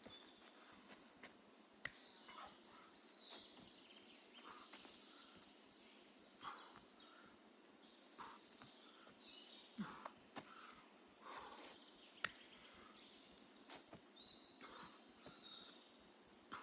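Faint birdsong: scattered short chirps and calls over a quiet hiss, with a few sharp soft clicks here and there.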